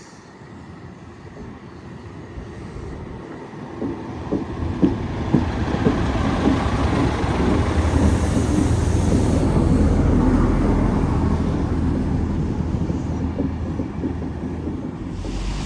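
A train approaching and passing, growing steadily louder to a peak about two-thirds of the way through and then slowly fading, with a low steady drone under a rush of wheel and rail noise. Sharp wheel clicks over rail joints come as it draws near.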